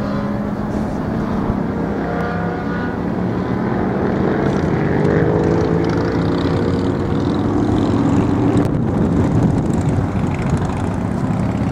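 Racing motorcycle engines running on the circuit, a steady drone with pitch that swells and glides as bikes pass, loudest around the middle.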